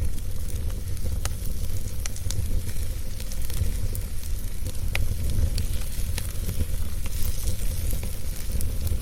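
Wood fire burning with a steady low roar and hiss, with sharp crackles and pops breaking out every second or so.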